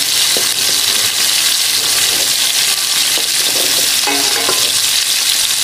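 Diced tomatoes and masala frying in hot oil in a steel pot, with a steady sizzle as a metal spoon stirs and scrapes through them.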